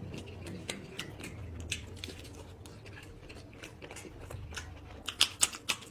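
Close-miked eating sounds: a steady run of short, wet mouth clicks and smacks from chewing food. They grow louder near the end with a quick cluster of sharp clicks.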